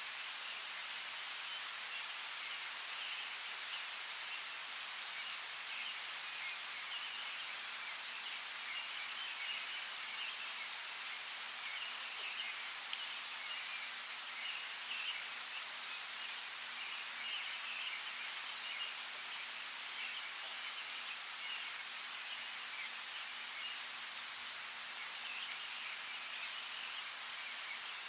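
Steady rain hiss with small birds chirping on and off throughout, and the odd sharper raindrop tick.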